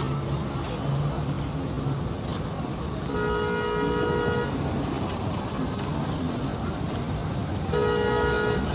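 A vehicle horn sounds two steady honks, the first about a second and a half long and the second shorter near the end, over continuous road traffic noise.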